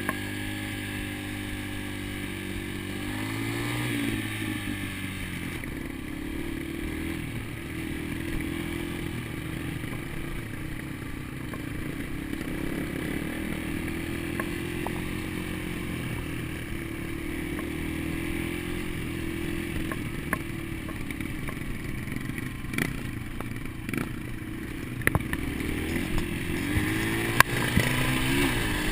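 Dirt bike engine running at a fairly steady speed, its pitch sweeping up and down briefly about three seconds in and again near the end. A few sharp clicks near the end.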